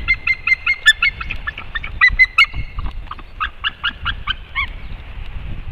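White-tailed eagle calling: a fast series of short, ringing notes, about seven a second, that slows toward the end and stops about four and a half seconds in.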